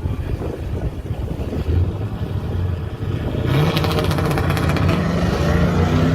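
Car engine rumbling at low revs, then about halfway through a car accelerates hard and its engine note climbs steadily.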